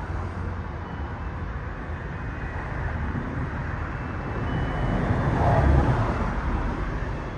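A car passing on the street: steady low road noise that swells to a peak about five to six seconds in and then fades.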